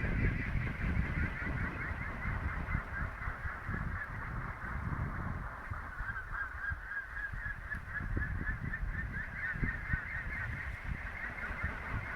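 Small wind turbine's generator whining with a fast, wavering warble as it spins at speed, the sound of it producing power. Gusty wind rumbles on the microphone underneath.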